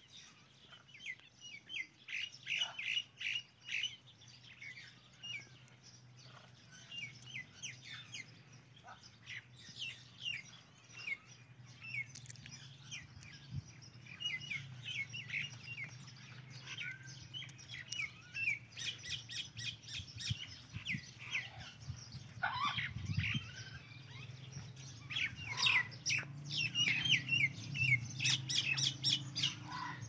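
Outdoor birds chirping and calling in quick, short notes, coming in clusters and busiest near the end, over a faint low steady hum.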